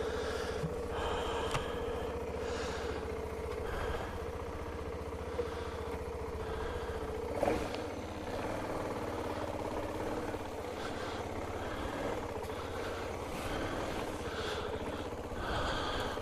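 BMW G 650 GS Sertao's single-cylinder engine running steadily, with gusty wind buffeting the microphone.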